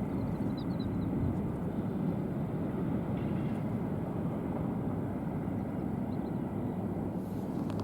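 Steady low outdoor rumble with no distinct pitch, with a few faint high chirps about half a second in and again near six seconds.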